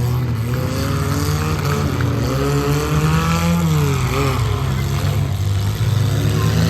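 Several mid-size race trucks' engines running hard together, their pitches rising and falling as they accelerate and back off around the figure-8 track.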